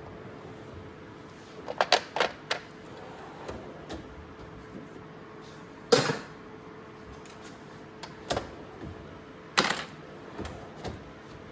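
Hand tools being handled and set down: a handful of separate sharp clacks and clinks, the loudest about six seconds in and again near ten seconds.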